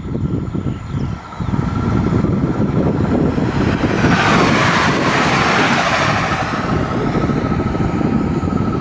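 Electric multiple unit passing at speed: a rush of wheel and air noise swells, peaks about four to five seconds in, then fades. Gusty wind buffets the microphone throughout.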